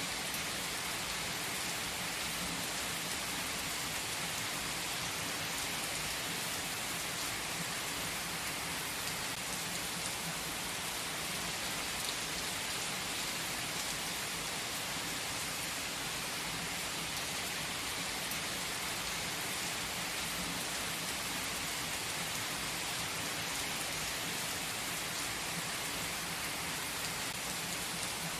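Steady rain, an even hiss of falling drops with faint scattered ticks, unchanging throughout.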